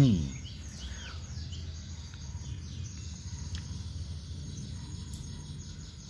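Small songbirds chirping: many short, high notes that fall in pitch, repeated over and over, above a faint steady low hum.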